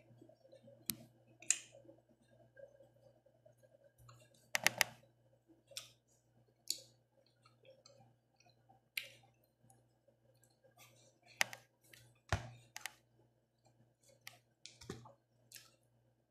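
Close-up eating sounds: chewing and wet lip-smacking with irregular small clicks, and a few louder sharp taps.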